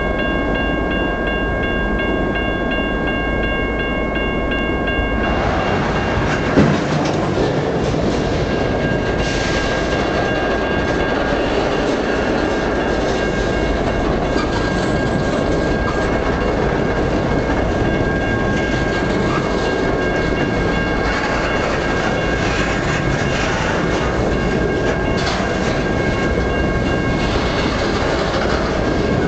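Freight train cars rolling past close by: steady rumble and clatter of steel wheels on the rails, with one sharp bang about six and a half seconds in. Thin steady high tones ring through it, plainest in the first few seconds.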